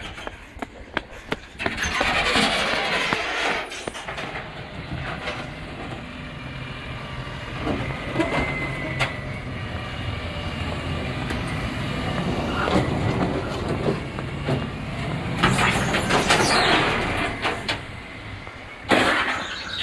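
Waste collection truck running with a steady low engine hum, a brief high squeal, and several louder surges of noise.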